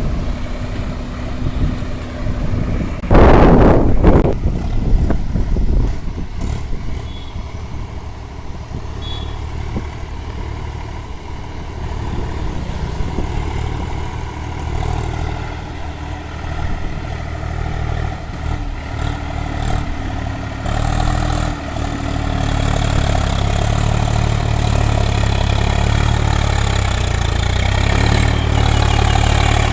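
Swaraj 744 XT tractor's three-cylinder diesel engine running steadily while hauling a sugarcane load. About three seconds in there is a loud, brief rush of noise, and the engine grows louder about two-thirds of the way through.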